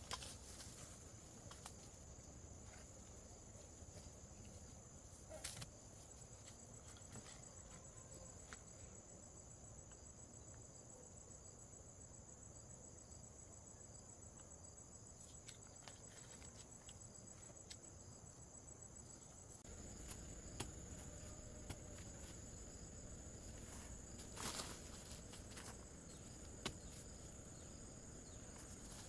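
Insects chirring in a steady, high, even trill, with a few faint knocks now and then.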